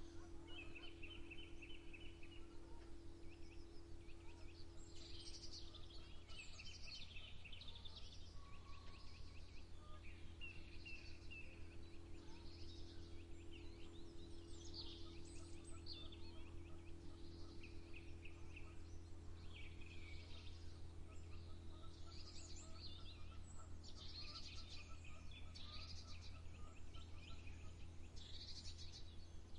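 Songbirds calling and singing in an early-morning chorus, many short chirps and trills overlapping, over a steady low hum.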